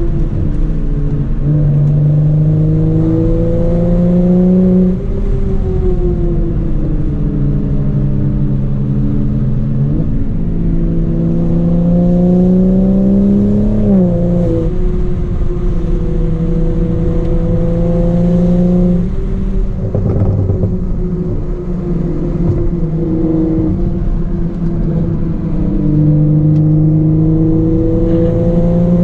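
Straight-piped BMW 335i's turbocharged N55 inline-six pulling hard. The revs climb steadily and fall sharply about five times, every four to five seconds.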